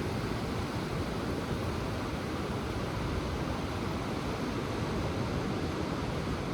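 Ocean surf: a steady, even rush of breaking waves with no single crash standing out.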